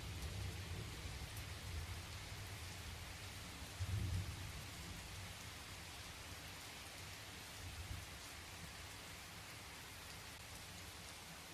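Recorded rain falling steadily, with low thunder rumbling: the rumble dies away early on, swells briefly about four seconds in and again faintly near eight seconds, leaving mostly the rain hiss.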